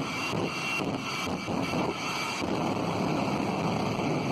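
Jet engine of a jet-powered drag-racing vehicle running at high power: a steady, dense rushing noise.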